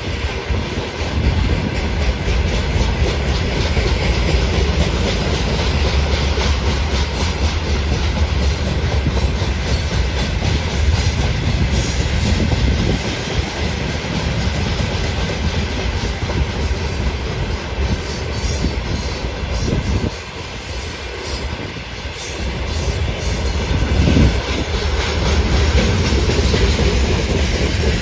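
Loaded freight train rolling past, its wagon wheels clacking over the rail joints in a steady rumble. The sound dips briefly about twenty seconds in, then rises again.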